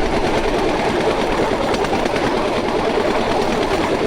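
Bamboo train's small engine running steadily at speed, with the continuous rumble and rattle of the bamboo platform riding the rails.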